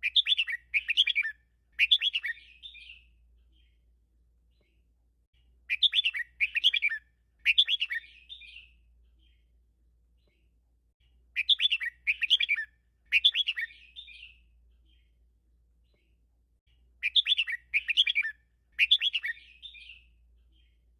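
Red-whiskered bulbul singing the same short phrase four times, about every six seconds: three quick notes, then a brief trailing warble.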